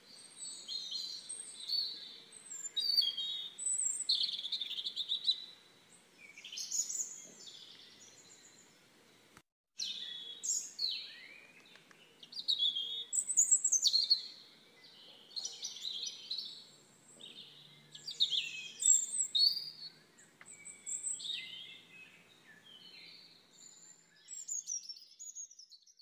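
Songbirds chirping and singing: many short, high, quickly sweeping calls overlapping one another, broken by a momentary dropout about nine seconds in.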